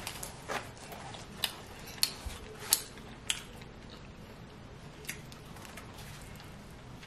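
Close-up eating of a giant slice of pizza: chewing with a string of sharp crunches and wet mouth clicks, most of them in the first three and a half seconds, then one more about five seconds in and quieter chewing after.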